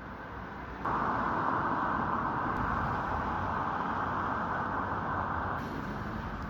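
Steady rushing road-vehicle noise with no clear engine note. It jumps sharply louder about a second in and drops back near the end.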